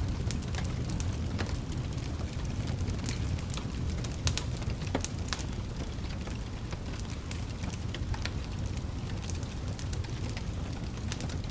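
Wood fire burning in a fireplace: a low steady rumble of flames with irregular sharp crackles and pops, a few louder pops about four to five seconds in.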